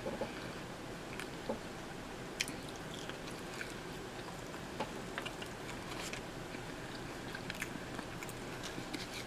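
A person chewing a mouthful of sausage and pepperoni pizza, with scattered small crunches and wet mouth clicks.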